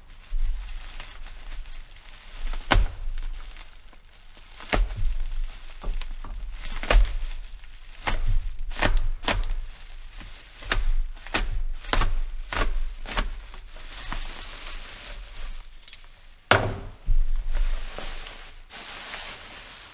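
Irregular knocks, thuds and rustling of packaging as a new chainsaw is handled and lifted out of its box.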